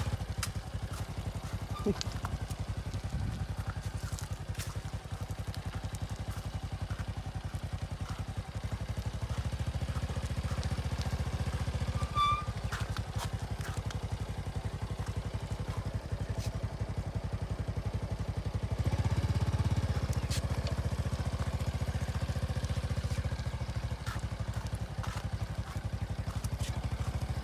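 A motorcycle engine running steadily while the bike is ridden, growing louder for a moment about two-thirds of the way through.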